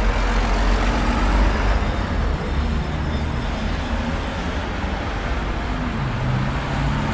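Busy city street traffic: a continuous rumble of passing cars and heavier vehicles, with one engine's low note standing out near the end.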